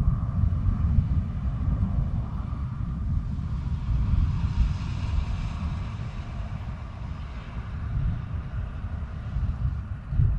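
Low, continuous rumbling of a night thunderstorm picked up by a GoPro's microphone, with a faint hiss that swells about four seconds in.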